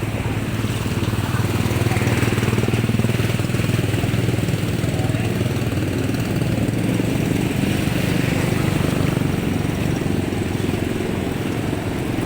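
Small motorcycle engine running steadily, the kind used on Philippine motorcycle-sidecar tricycles, with a slight rise in level about two seconds in.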